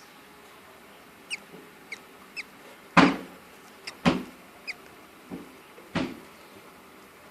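Budgerigars chirping: about five short chirps, each falling quickly in pitch, with three louder thumps about three, four and six seconds in.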